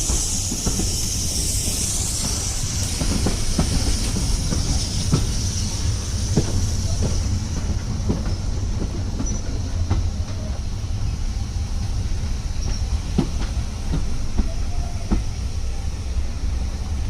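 Railway carriage running along the track: a steady low rumble with irregular clicks and knocks from the wheels over the rail joints. A high hiss or squeal fades out about halfway through.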